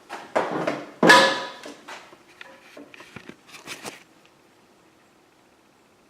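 Freshly welded steel parts being handled on a bench, knocking and clanking, with one louder clank about a second in that rings briefly. The clatter stops after about four seconds, leaving faint room tone.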